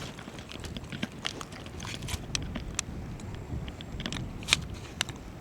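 Wind rumbling on the microphone, with scattered light clicks and taps from fishing gear being handled while a hooked fish is brought in.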